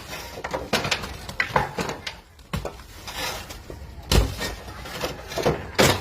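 Irregular knocks and clatter from building work, with a heavy thump about four seconds in.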